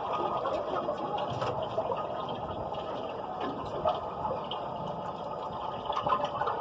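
Water sloshing and splashing against a boat's hull: a steady churning wash with small scattered splashes.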